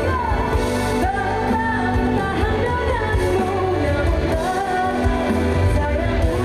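A female pop singer singing live with a band through a concert PA, with a held, gliding vocal melody over a steady heavy bass.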